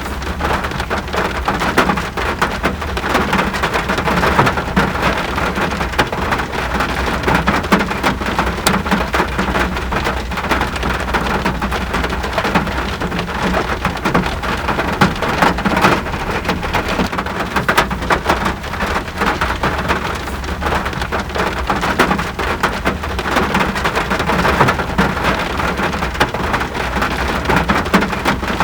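Steady rain with dense pattering of individual drops, over a constant low rumble.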